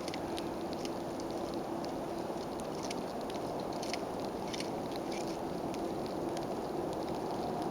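Woodpecker pecking at wood while feeding: faint, quick, irregular taps, several a second, over a steady outdoor hiss.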